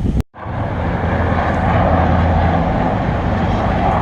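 Airplane flying overhead: steady engine noise with a low hum, starting right after a brief cut to silence near the start.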